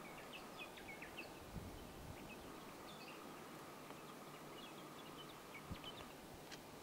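Faint, scattered short high chirps of small birds over a steady low hiss, with an occasional soft thump.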